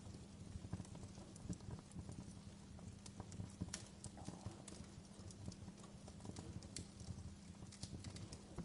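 Wood fire crackling faintly: irregular small pops and snaps, several a second, over a steady low hum.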